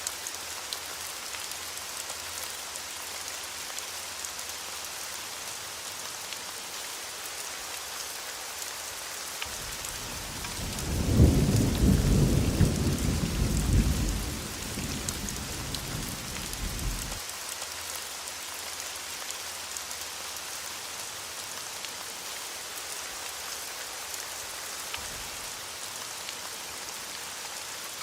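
Steady heavy rain hissing throughout. A thunder rumble comes in about ten seconds in, loudest for the next few seconds, then fades out by about seventeen seconds.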